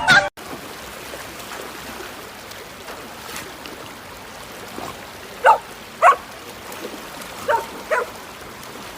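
A dog barks four short times, two about halfway through and two more near the end, over a steady hiss.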